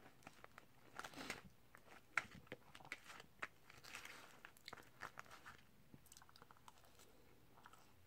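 Close-miked eating sounds: chewing animal-style fries, with a plastic fork scraping and tapping in a paper fry tray. A run of sharp clicks and crunches about a second in, thinning out after about six seconds.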